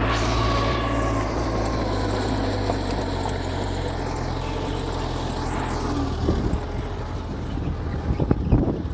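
Mitsubishi G2 bulldozer's diesel engine running steadily, with a few metallic clanks in the last few seconds.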